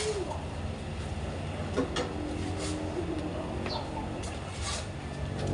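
Short bird calls over a steady low hum, with a few light clicks.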